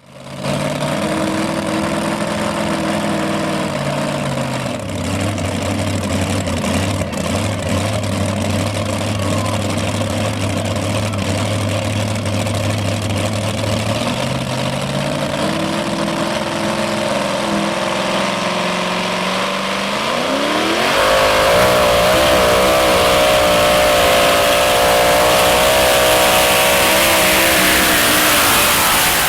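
Modified two-wheel-drive pulling truck's engine running at a steady low speed, its pitch rising gradually, then about twenty seconds in revving sharply and holding at high revs, louder and with a wavering pitch.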